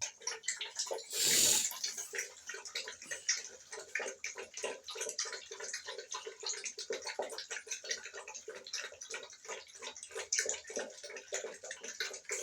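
American Pit Bull Terrier puppies lapping water from a bowl: a dense, continuous run of small wet clicks from several tongues at once, with a short rush of noise about a second in.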